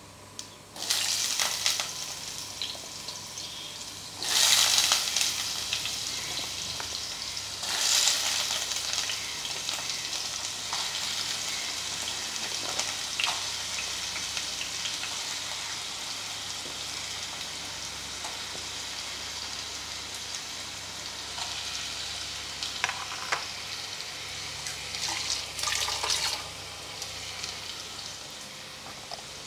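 Cubed potatoes going into hot mustard oil in a steel pan, the oil sizzling loudly in surges about one, four and eight seconds in. After that it settles to a steady frying sizzle that slowly quietens, with a few short crackles later on.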